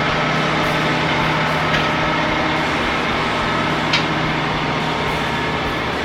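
Large diesel engine running steadily at a constant speed, with two brief sharp ticks, one near 2 seconds in and one near 4 seconds in.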